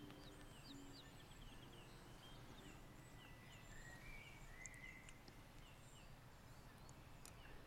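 Faint birdsong: many short chirps and a few longer whistled notes over a low background hush.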